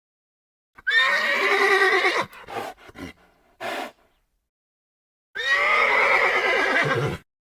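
Stallion vocalizations played as edited sound-effect clips: a long neigh about a second in, a few short breathy bursts after it, then a second long neigh near the end, each clip cut off into dead silence.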